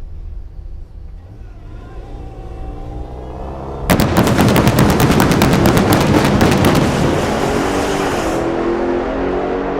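Dodge Challenger SRT Demon 170's supercharged 6.2-litre HEMI V8 building revs at the start line. About four seconds in it launches at full throttle with a sudden, loud, crackling blast. The crackle eases after about three seconds and leaves a steadier engine note as the car pulls away down the drag strip.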